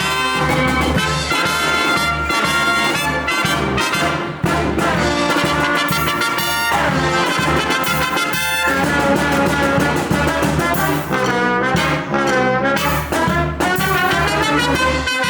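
A live brass band playing, with trumpets and trombones over a steady bass beat in a swing-jazz style.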